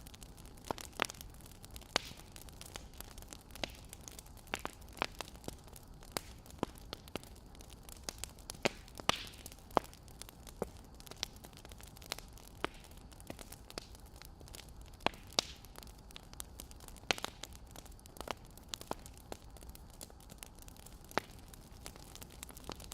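Wood fire crackling: a low steady hiss broken by sharp, irregular pops and snaps of burning firewood, several a second.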